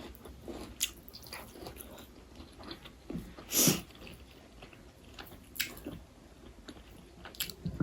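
A person chewing and biting chicken biryani, with scattered short wet mouth clicks and smacks. There is one louder, longer noise about three and a half seconds in.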